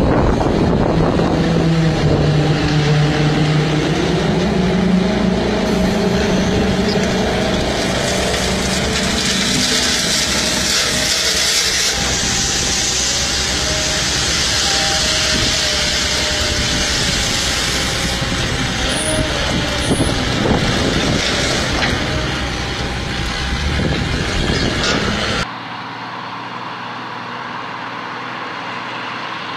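Heavy truck engine running under load with wind and road noise, its pitch rising over the first few seconds. About 25 seconds in, the sound cuts off abruptly to a quieter, steady vehicle sound.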